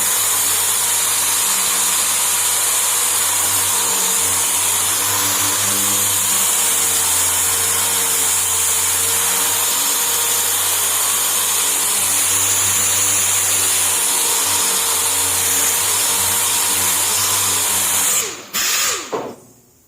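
Dual-action (DA) sander running steadily as it sands body filler on a car hood. It stops about 18 seconds in, is triggered again briefly, and winds down with a falling pitch.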